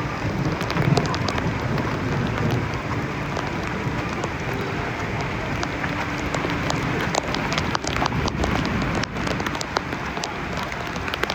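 Heavy thunderstorm rain falling steadily, with many sharp drop hits close to the microphone.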